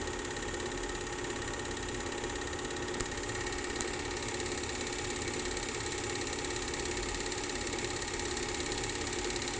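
Steady mechanical hum with a few constant tones, like a small motor running.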